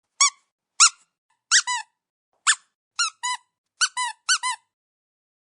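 About a dozen short, high squeaks, each rising then dropping in pitch, several coming in quick pairs.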